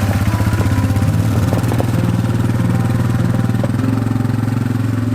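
Four-wheeler (ATV) engine running at a steady speed.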